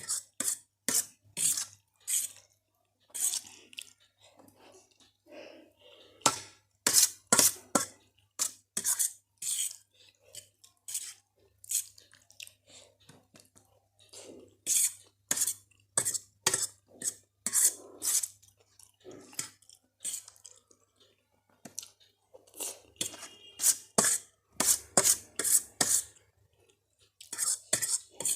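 Close-miked eating of spicy Maggi noodles with Kurkure: a utensil clinking against the dish and crunchy chewing, as sharp irregular clicks and crunches that come several a second in clusters.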